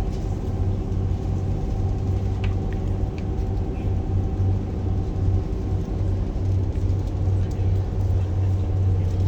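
Cruise boat's engines running steadily, a low even drone with a few fainter steady tones above it.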